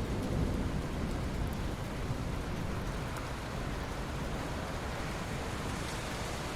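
Steady rain falling, with the tail of a low thunder rumble dying away in the first second or so.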